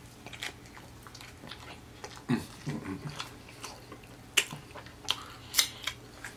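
Close-miked chewing of a big hamburger: wet, smacking mouth sounds with scattered sharp clicks, the loudest about four and a half and five and a half seconds in.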